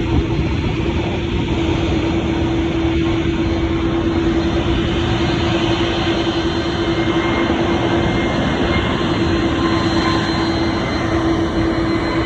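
Jet airliner engines running with a loud, steady roar, carrying a constant low hum and a faint high whine.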